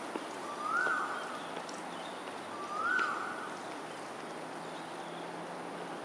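A bird calling: a short whistled note that rises and then holds, given twice about two seconds apart.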